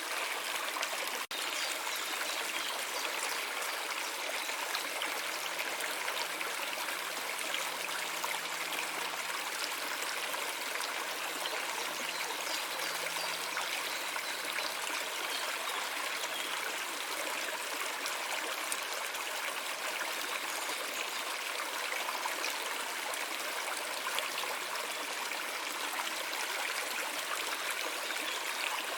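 Stream water flowing with a steady trickling babble. There is a momentary dropout about a second in.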